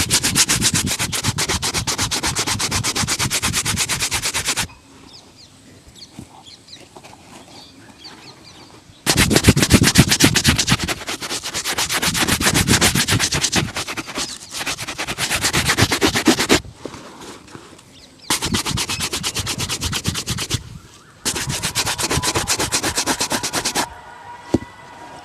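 Fast back-and-forth rubbing strokes on shoe leather during a shoe shine, in four spells of a few seconds each with short pauses between.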